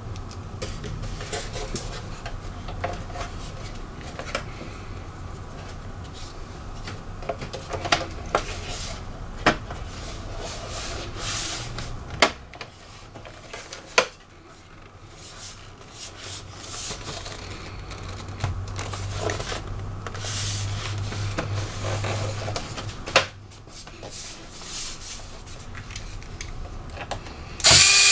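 Hands working on an opened laptop: parts rubbing and being handled, with scattered small clicks and taps. Near the end a small electric screwdriver starts running, the loudest sound.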